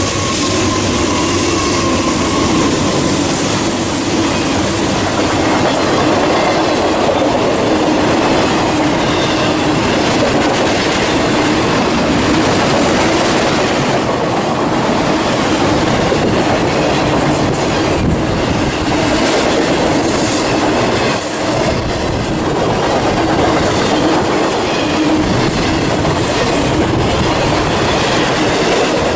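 Freight train cars rolling past at close range: a steady, loud clatter of steel wheels over the rail.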